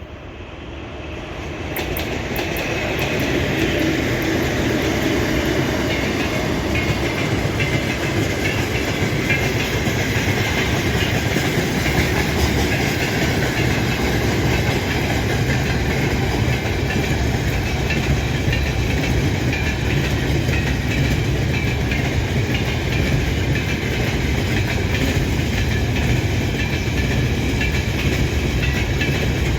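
A 3ES5K 'Ermak' electric locomotive with a freight train passing. The sound builds over the first few seconds as the train arrives, then becomes a steady rolling rumble with the clickety-clack of the wagon wheels on the rails.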